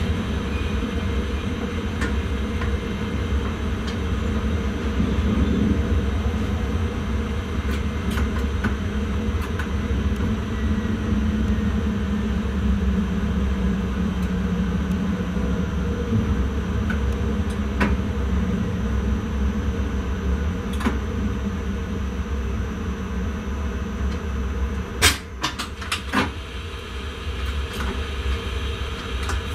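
Intercity train running along the line, heard from inside the driver's cab: a steady rumble, with a few sharp clicks and a cluster of louder clicks near the end.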